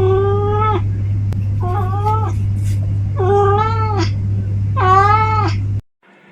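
A cat meowing four times, drawn-out calls about a second and a half apart, each dropping in pitch at the end, over a steady low hum. All of it cuts off suddenly near the end.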